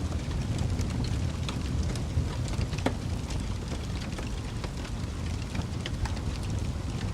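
Fire crackling: a steady low rumble of flames with scattered sharp pops and snaps, one louder pop about three seconds in.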